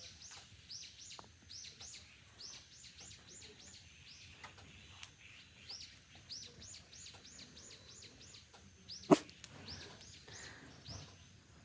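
A small bird chirping over and over in short, high, arching notes, about two or three a second. A single sharp knock comes about nine seconds in.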